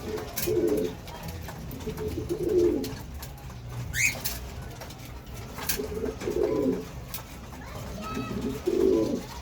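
Pigeons cooing: four low, warbling coos spread over several seconds. A short high chirp that rises in pitch comes from another bird about four seconds in.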